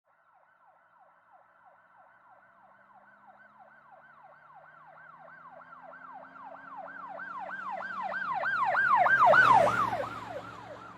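Fire engine siren in a fast yelp, about three or four sweeps a second, growing louder as the truck approaches, loudest about nine seconds in, then fading as it passes, with the truck's engine rumbling underneath.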